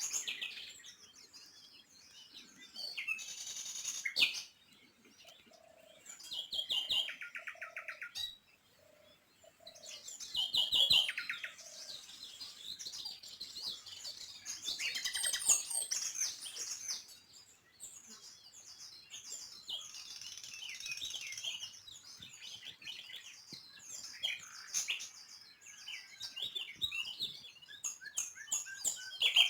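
Small birds chirping and twittering, many calls overlapping, with rapid trills here and there.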